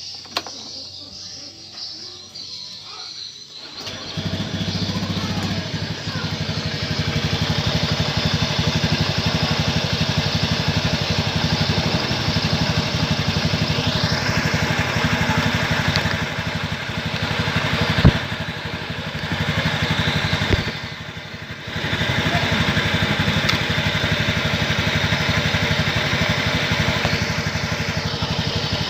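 Honda Scoopy scooter's single-cylinder four-stroke engine starting about four seconds in and then idling steadily, running on fresh engine oil mixed with cooking oil as an engine flush. Its sound dips briefly twice in the second half, once after a sharp click.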